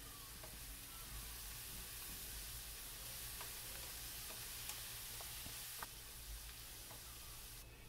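Chopped onion and snake gourd sautéing in oil in a pan, a faint steady sizzle, stirred with a wooden spatula that gives a few light taps against the pan. The sizzle drops away near the end.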